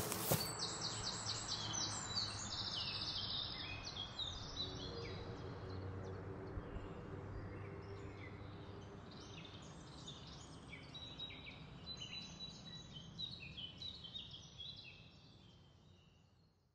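Small birds chirping and trilling in quick repeated notes over a steady low hum and hiss; everything fades out near the end.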